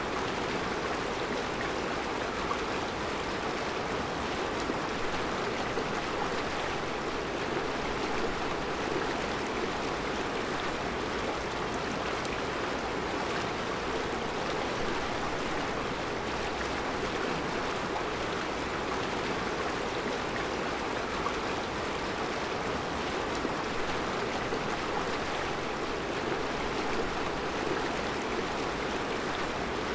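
Mountain river flowing over round rocks in a rocky riverbed: a steady rushing of water.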